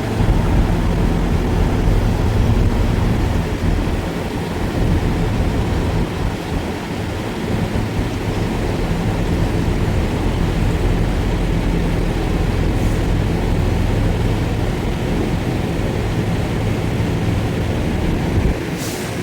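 Truck engine and road noise while driving, a steady drone. There is a short click near the end.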